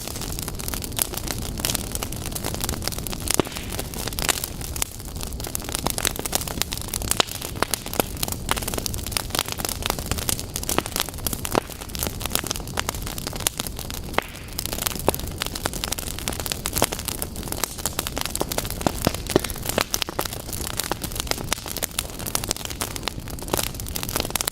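Wood fire burning in a fireplace, with a steady low rumble and hiss and frequent sharp crackles and pops.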